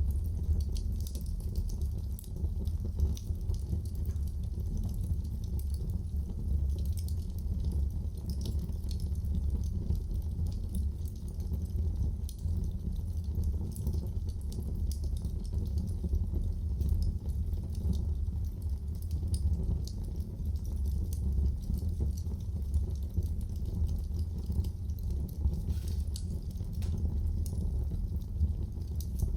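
Wood fire burning in a fireplace: a steady low rumble of flames under frequent small, sharp crackles and pops.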